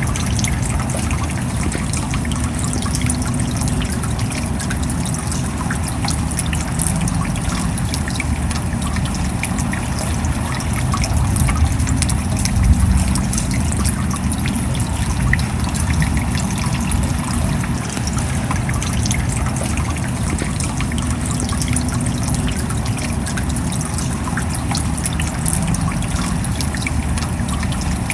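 Steady rain falling, with many individual drops ticking through an even hiss of water.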